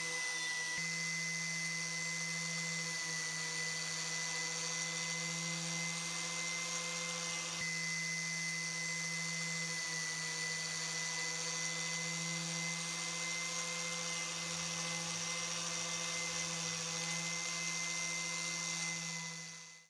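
An electric power tool running at a steady speed with a constant hum and whine, fading out near the end.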